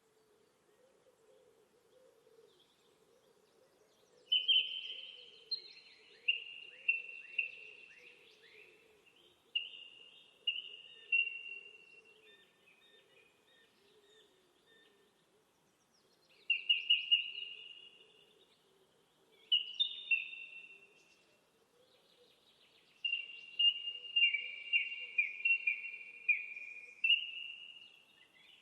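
A bird singing in short phrases of quick, sharp, downward-sweeping notes, repeated several times with pauses between, over a faint steady background noise.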